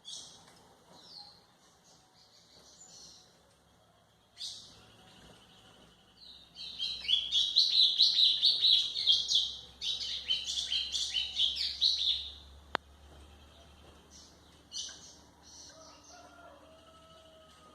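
White-throated seedeater (golinha) singing: a few short high chirps, then a loud, rapid run of notes lasting about six seconds in the middle, then short chirps again near the end.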